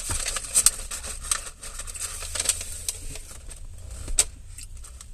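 Close-up eating sounds: crunching chews of tortilla chips and salad, irregular crackles and clicks, loudest about half a second in and again near four seconds.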